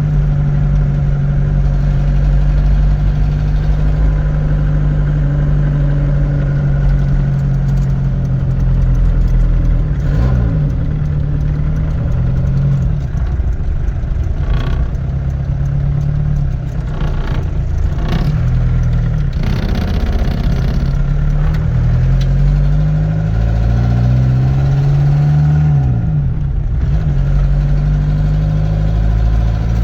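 Engine of a Mk2 Ford Transit van running on the move, its note rising and falling several times as it is driven up through the gears.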